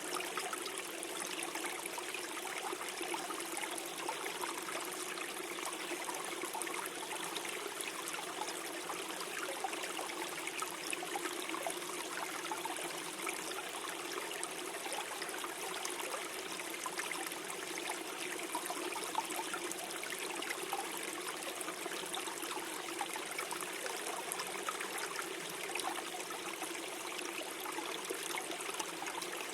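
Gentle forest stream flowing and gurgling steadily, a continuous rush of water flecked with small splashes.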